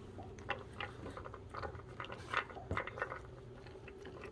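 Shih Tzu chewing dry kibble: a string of irregular small crunches and wet chewing clicks.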